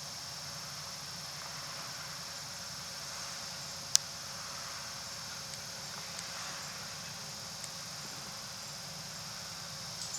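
Interior of a city route bus, with the engine running low and steady under a steady high hiss. One sharp click comes about four seconds in, and a few faint ticks follow.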